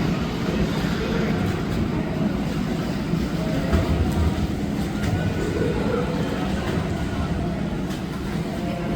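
Steady low road rumble of a moving vehicle heard from inside the cabin, with no sharp events.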